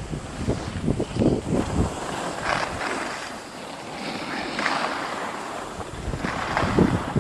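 Wind buffeting the microphone while skiing downhill, with skis hissing and scraping over the snow in several bursts, one turn every couple of seconds.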